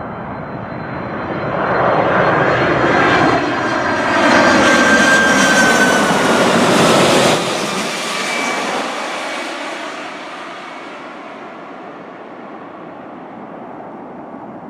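A UPS cargo jet's engines as it passes close by: the noise builds to a peak, drops off sharply about seven seconds in, then fades away. A high engine whine slides down in pitch as the jet goes by.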